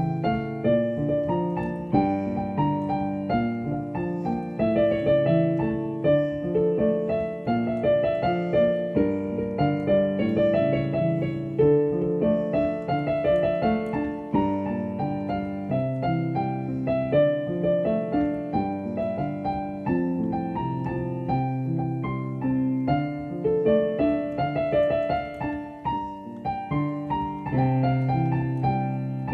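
Piano music: a continuous piece of many quick, overlapping notes.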